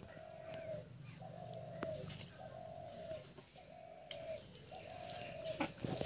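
A bird calling with a low, even note repeated about five times, roughly once a second.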